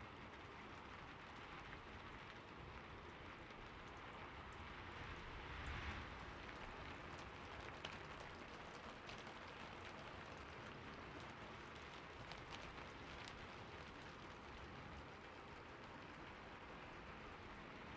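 Steady rain falling on a roof, with scattered individual drops ticking against it and a brief swell about six seconds in. The sound is quiet.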